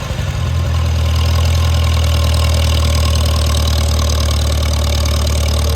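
1954 Farmall Super C's four-cylinder engine running under throttle as the tractor speeds up into third gear. The engine note is unsettled for the first moment, then firms up, a little louder, and holds steady.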